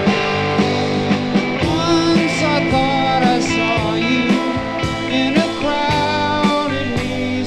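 Electric rock music played from a vinyl record: a lead electric guitar plays sustained, bending notes over the band.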